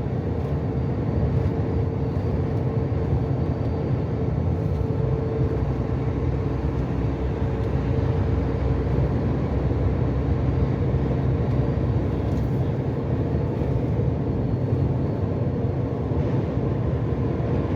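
Inside a truck cab on the move: a steady drone of engine and road noise, with a faint steady hum running through it.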